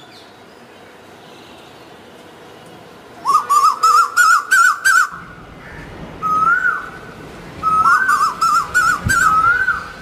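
Bird-like whistled calls in quick runs of short rising notes: a run of about six notes starting a little past three seconds, a single note about six and a half seconds in, and another run of about five notes near the end. A faint low rumble sits under the second half, with a brief low thump near nine seconds.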